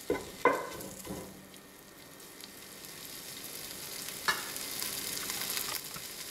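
Chorizo sizzling as it fries in a metal pot. A wooden spatula knocks against the pot three times in the first second, and there is one more knock a little past four seconds in.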